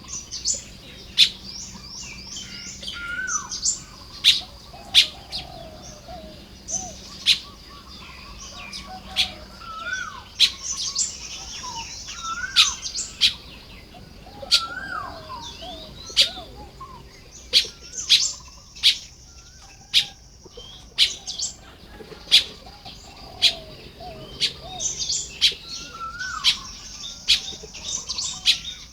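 A colony of baya weavers chattering while building nests: many sharp, quick chips with stretches of high, buzzy, wheezing song, and short lower whistled notes among them.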